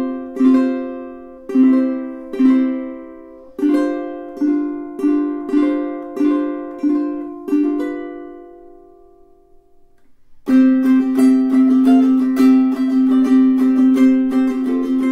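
Solid koa tenor ukulele (aNueNue UT5K) playing chords that are struck and left to ring, at first about one a second and then quicker. The last chord rings out and fades almost to silence, and then brisk, continuous strumming begins about two-thirds of the way through.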